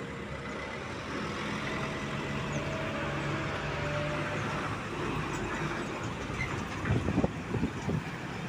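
Truck engine running steadily amid road traffic noise, with a few sharp knocks about seven seconds in.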